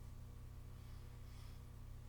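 Steady low electrical hum of a JR East E127 series electric multiple unit standing still at a station, its onboard equipment running with the traction motors silent.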